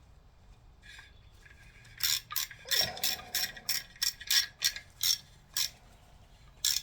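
Hand ratchet clicking in quick strokes, starting about two seconds in, as the bolts of an LS engine's lifter guide tray are run down snug. A dull knock sounds just before the third second.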